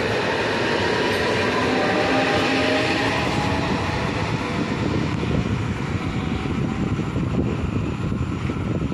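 Electric multiple-unit passenger train running past close by, a continuous rolling rumble of wheels on rail with a steady whine over it in the first few seconds.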